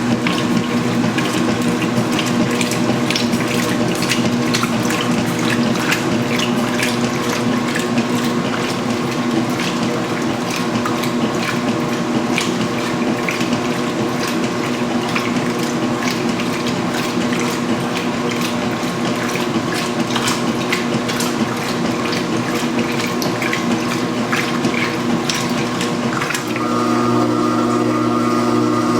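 Huebsch (Speed Queen) commercial washing machine running: water sloshing and dense clicking over a steady motor hum. About 26 s in, the motor's tone changes to a new, steadier pitch.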